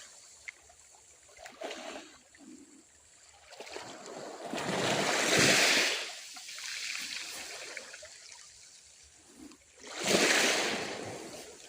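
Small sea waves breaking on the shore, two swells of surf washing in about five seconds apart, with a quieter wash between them.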